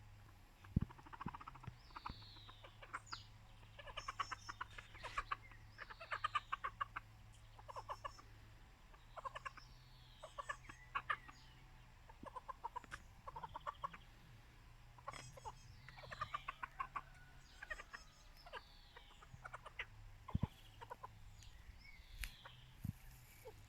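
Pekin bantam chickens clucking in quick runs every second or two, with short high falling calls in between. A faint low steady hum runs underneath.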